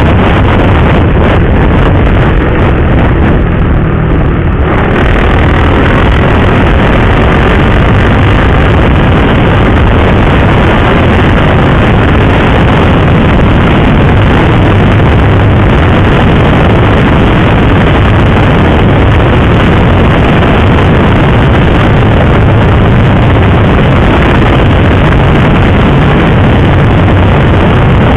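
Motorcycle riding at speed: a steady engine hum under loud wind rush on the microphone.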